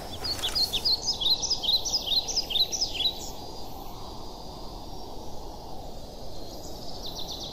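A small bird chirping: a quick run of short, high, falling notes for the first three seconds, and a faint rapid trill near the end, over a steady low outdoor background noise.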